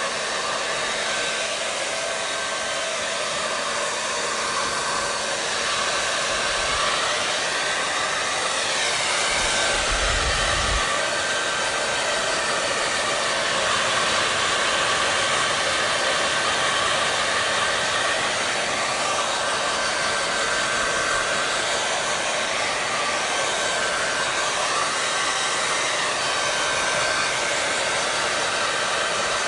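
Hair dryer running steadily: a continuous whooshing hiss of blown air with a faint steady whine, wavering slowly every few seconds.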